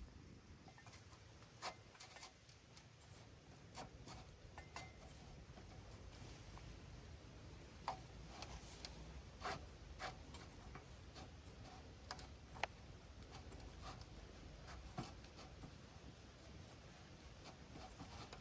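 Faint, irregular light clicks and rubbing, like small objects being handled, over a low steady background rumble.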